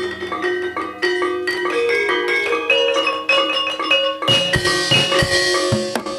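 Gamelan music accompanying an ebeg horse dance: mallet-struck keyed instruments play a quick ringing melody, and about four seconds in drums come in and the ensemble grows fuller.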